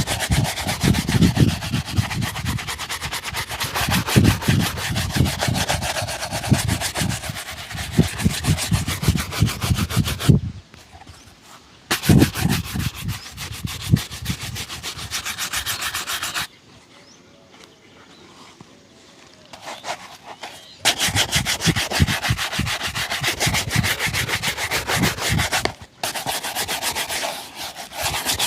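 Shoe being brushed hard with a shoe-shine brush in fast back-and-forth strokes, in several long runs broken by a brief pause and then a longer one midway.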